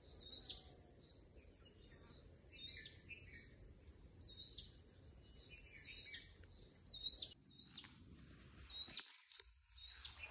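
Evening outdoor ambience: a bird repeats a short rising call about once a second over a steady high-pitched drone of crickets.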